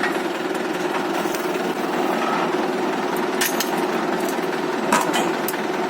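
Mahindra 575 tractor's diesel engine running steadily with a rapid rattle as it works the bore well pump lifting machine, with a few sharp metallic clanks about three and a half and five seconds in.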